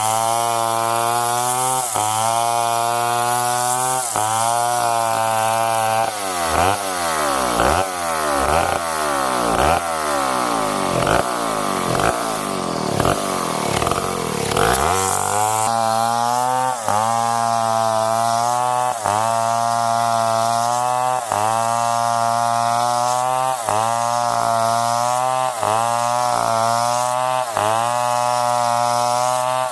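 Stihl 070 two-stroke chainsaw running at high revs while cutting a tree, its pitch dipping briefly about once a second. For several seconds in the middle the pitch swings rapidly up and down, then settles back to the steady run with regular dips.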